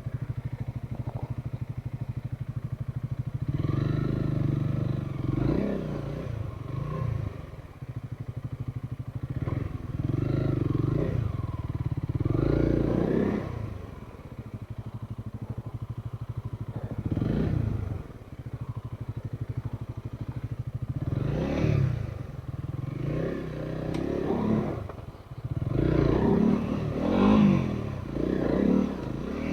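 Trail motorcycle engine running over rough ground, its revs rising and falling again and again in short bursts of throttle over a steady low throb.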